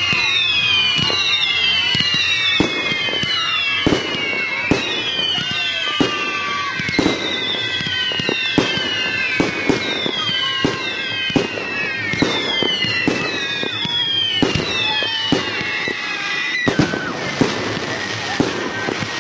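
Fireworks barrage: a rapid run of whistles, each falling in pitch, over repeated sharp bangs of bursting shots. About three-quarters of the way through the whistles stop, leaving bangs and a denser crackle.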